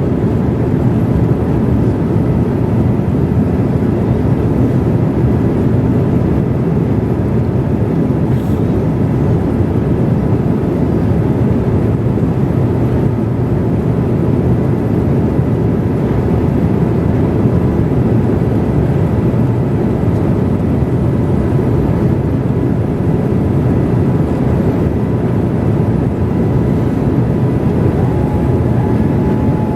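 Steady low cabin roar of a Boeing 787-8 airliner in flight: engine and airflow noise heard from inside the passenger cabin. A faint steady tone comes in near the end.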